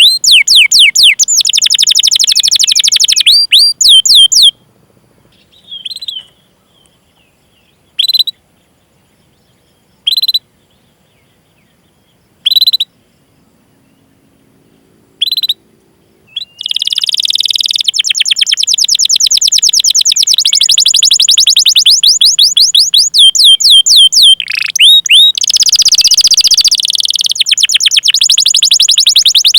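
Domestic canary singing: fast runs of repeated down-sliding 'cuit cuit' chirps, then a stretch of single chirps about every two seconds, then long rapid rolling runs of chirps start again and carry on.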